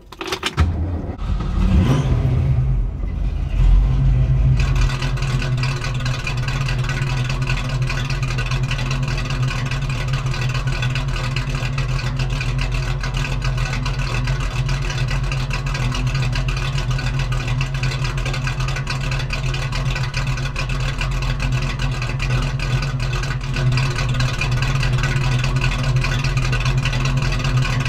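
1965 Ford Mustang's mildly built 289 V8, breathing through long-tube headers, an X-pipe and Black Widow Venom 250 mufflers, being started. It rises briefly a couple of times in the first few seconds, then settles about four to five seconds in into a steady idle that runs on.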